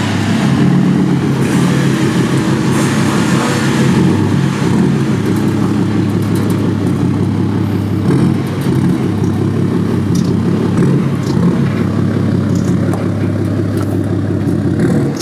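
Vehicle engine running at a steady speed, a low droning hum with a hiss of noise above it.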